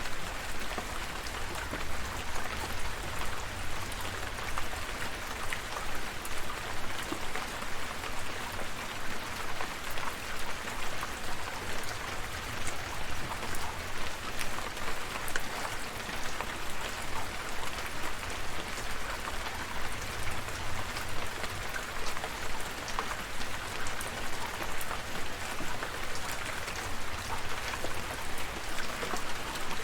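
Steady rain falling, with many single drops ticking sharply against a surface over an even hiss and a low rumble underneath.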